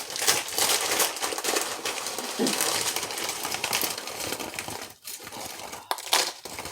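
Food packaging crinkling and rustling as it is handled, with irregular light clicks and taps.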